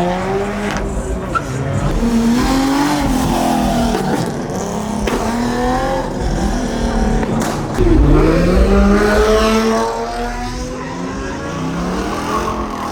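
A car engine revving hard, its pitch climbing again and again as the car is driven sideways with squealing tyres. The loudest stretch comes about 8 seconds in.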